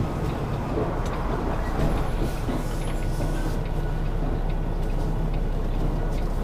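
Semi-truck's diesel engine running steadily, a low even hum.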